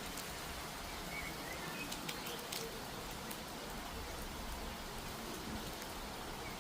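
Steady rain falling, with scattered drips and drops ticking on surfaces. A few short, faint bird chirps sound about a second in.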